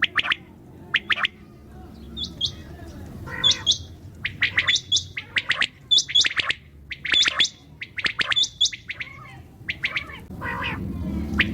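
Common quail calling: short, sharp notes repeated in quick pairs and small groups, with higher hooked notes among them, over a low steady hum.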